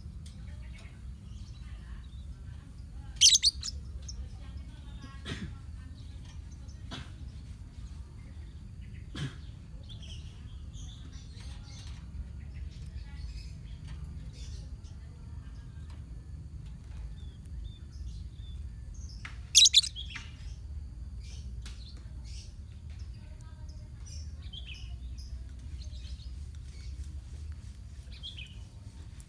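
Lovebirds in a colony chirping in short, scattered calls, with two loud, shrill calls standing out, one about three seconds in and one near the middle. A steady low hum runs underneath.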